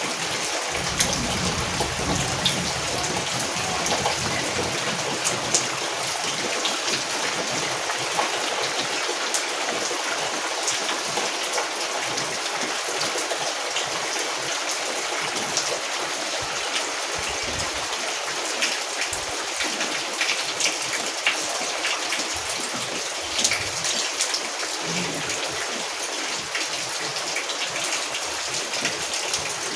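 Steady rain falling, a dense hiss of rainfall with many individual drops ticking on a surface.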